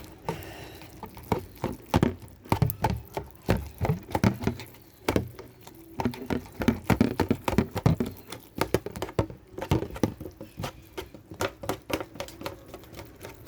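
A small spoon stirring ramen noodles and broth in their container: a run of quick, irregular taps and scrapes.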